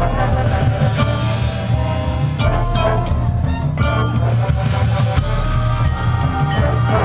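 Marching band playing loudly: sustained brass chords over drums, with several sharp percussion hits.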